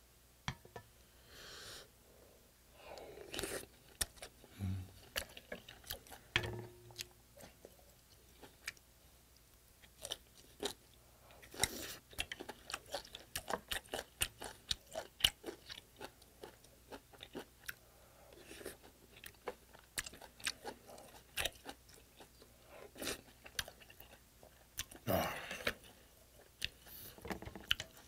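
Close-miked eating sounds of a person chewing, with many short mouth clicks and wet smacks, and a longer noisy swell about 25 seconds in.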